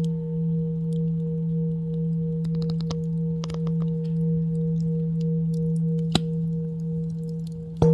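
Singing bowl ringing out, a low steady hum with a slow pulsing waver, with a few faint crackles. Near the end the bowl is struck again, and a fresh, louder ring starts.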